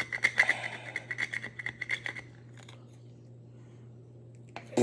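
Utensil scraping at burnt, hardened candy sludge stuck to a plate, in quick repeated strokes, about five a second, for about two seconds before it stops.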